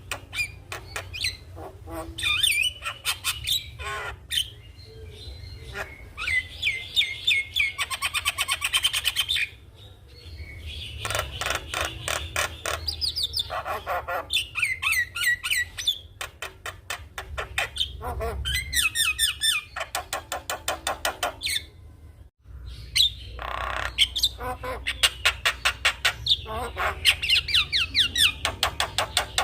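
Javan myna singing a long, varied song: harsh squawks, fast rattling runs of clicks and whistled up-and-down notes, over a steady low hum. The song breaks off for a moment about two-thirds of the way through.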